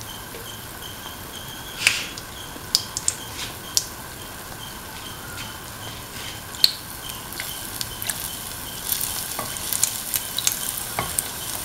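Semolina pancake batter shallow-frying in hot oil in a pan: a steady sizzle with scattered sharp pops and crackles, which come thicker near the end.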